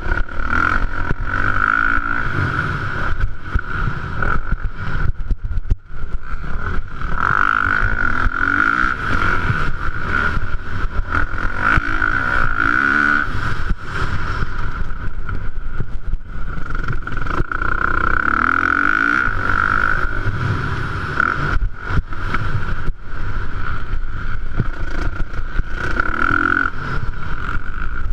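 Motocross bike engines in a 450-class race, revving up and down over and over as the throttle is worked, with a brief sharp drop about six seconds in.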